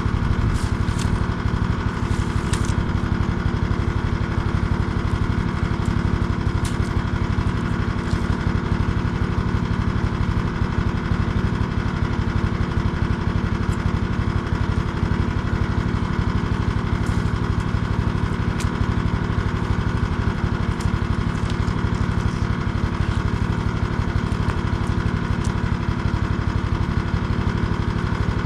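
Small engine running steadily at an even speed, with a few faint clicks over it.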